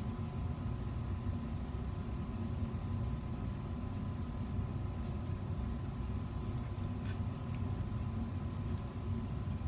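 Steady low rumbling background hum with a faint steady tone, and a couple of faint clicks about seven seconds in.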